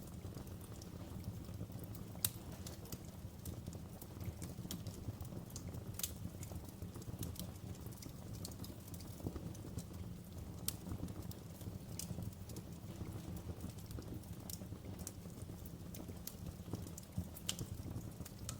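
Wood fire in a fireplace crackling: irregular sharp pops and snaps over a steady low rumble of flames, with one louder pop about two seconds in.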